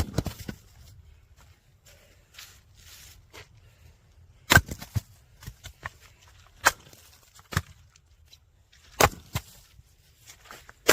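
Firewood being split by hand: about five sharp chopping strikes at uneven spacing, each followed by a few lighter knocks.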